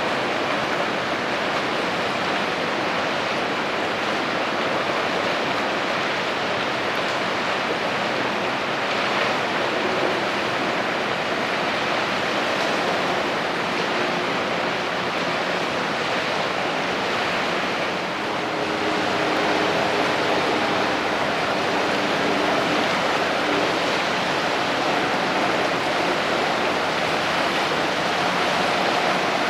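Steady rushing noise like surf or wind, with a faint steady hum coming in about two-thirds of the way through.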